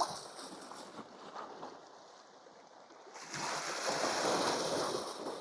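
Sea waves washing against shore rocks: a low rushing background, then a louder wave surge swells about three seconds in and ebbs before the end.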